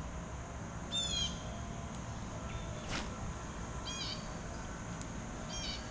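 A bird calling outdoors: three short high calls, about a second in, around four seconds and near the end, over a steady high background hiss. A single sharp click sounds about three seconds in.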